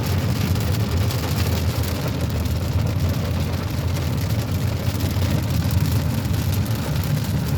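Steady road and engine rumble heard inside a moving car's cabin, with rain falling on the car's roof and windows.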